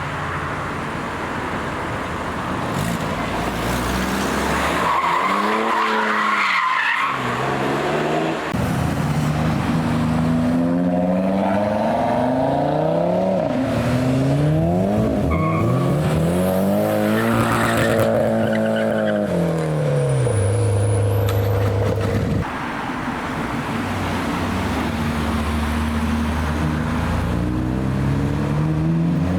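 Several performance cars accelerating away one after another, their engines revving up and dropping back in pitch between gear changes as they pass.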